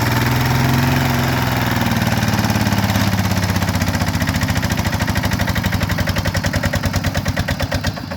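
Engine of a farm rice truck running with a rapid, even chugging beat that slows steadily, the beats spacing out and swelling, until the sound drops away sharply at the very end.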